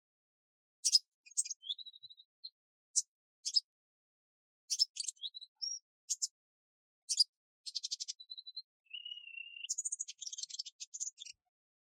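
Small birds chirping and calling: a string of short sharp chirps with a few brief whistled notes, and quick rattling trills in the second half.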